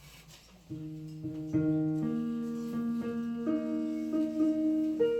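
Piano playing a song's introduction: a few single notes about a second in, then held chords that sustain and change through the rest.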